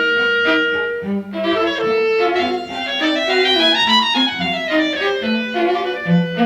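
A small instrumental ensemble playing a composed piece with bowed strings prominent; about four seconds in, a run of notes climbs to a peak and falls back.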